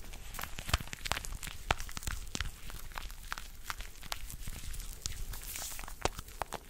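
Close-miked ASMR hand sounds: irregular small clicks and soft rustling, with a few sharper clicks.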